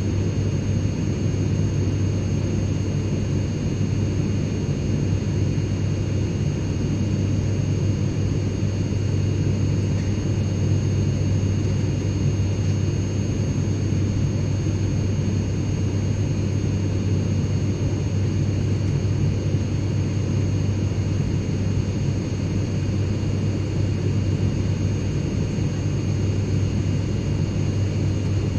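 Airplane cabin interior noise: a steady low drone that never changes, with a faint thin whine held on several high notes above it.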